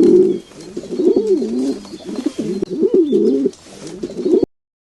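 An animal calling in a run of low, wavering calls, repeated in several short phrases, which cut off abruptly near the end.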